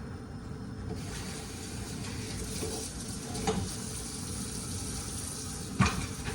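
Kitchen cooking sounds while browned ground meat is drained: a steady hiss that sets in about a second in, with two knocks of cookware, the second near the end and louder.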